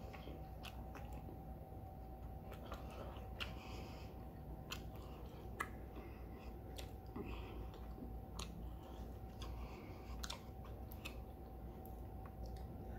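Close-miked chewing of a mouthful of soft teriyaki chicken and noodles: moist mouth sounds with scattered small clicks and smacks, over a faint steady hum.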